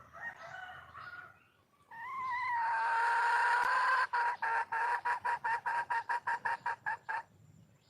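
Wild junglefowl hen calling to attract a male: a few short calls, then a long drawn-out note that breaks into a fast run of sharp, repeated pulses, about six a second, which stops abruptly near the end.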